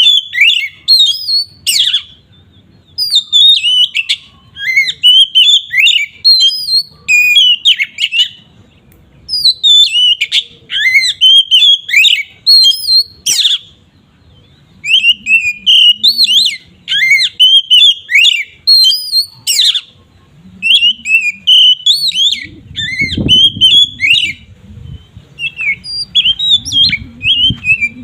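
Oriental magpie-robin (kacer) singing loud, varied whistled phrases in its full, open 'ngeplong' song. The phrases come in bursts of a second or two with short pauses between them. A low rumbling noise runs underneath for the last few seconds.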